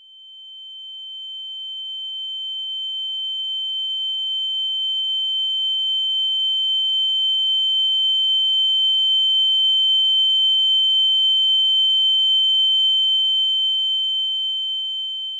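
A single steady high-pitched electronic tone with a fainter lower tone beneath it, swelling in over the first few seconds, holding, then fading out near the end.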